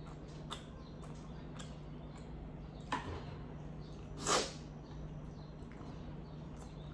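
A person chewing a mouthful of pasta: soft wet mouth clicks and smacks, a sharper click about three seconds in, and a short breathy burst a little after four seconds, over a steady low hum.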